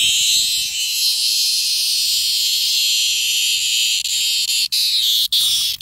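A caught cicada giving its loud, continuous distress buzz, which starts to sputter with brief breaks near the end.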